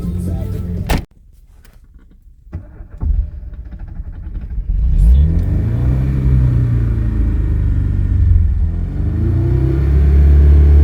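VAZ-2106 Zhiguli's carburetted inline-four engine coming back to life after stalling. After a sudden cut-off about a second in and a few faint clicks, it catches around three seconds in and is revved up and down twice.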